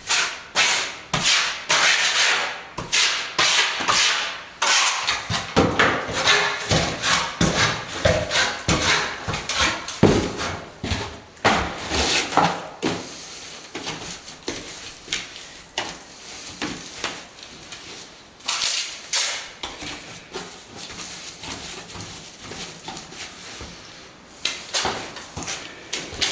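Repeated scraping strokes of hand plastering work, a tool dragged and tapped against plaster in an irregular rhythm, thinning out in the second half.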